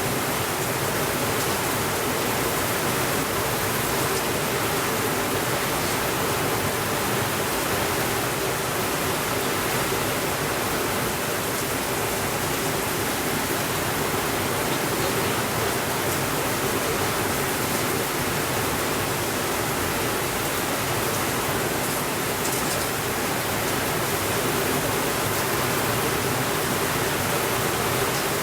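Steady rainfall, an even rushing hiss with no breaks or swells.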